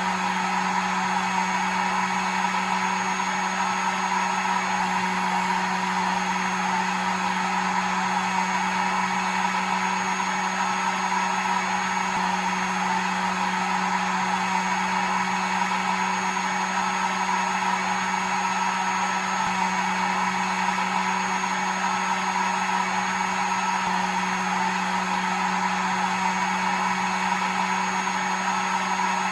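Hair dryer running steadily: an even rush of blown air with a low motor hum and a thin high whine, unchanging throughout.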